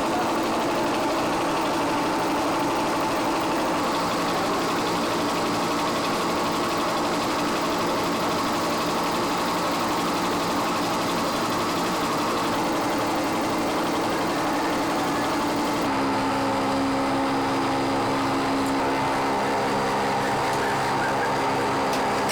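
Industrial machinery running with a steady drone, its hum changing abruptly to a different set of steady tones near the end.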